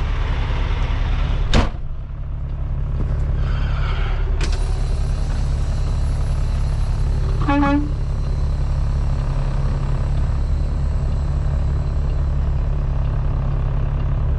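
Kenworth T660 semi truck's diesel engine running steadily at low speed while the truck backs up, with a sharp click about a second and a half in and a short pitched sound about halfway through.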